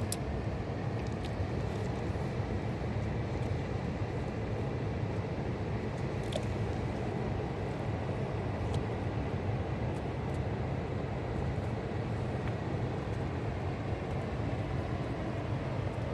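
Fast-flowing mountain river rushing, a steady roar with a few faint clicks over it.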